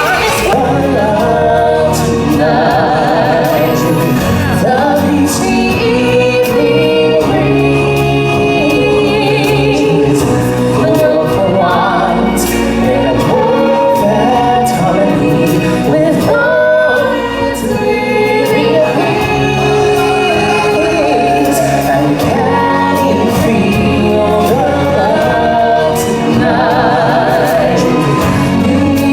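Loud stage-show music: a group of singers in choir style with solo voices holding wavering notes, over a band with a steady bass.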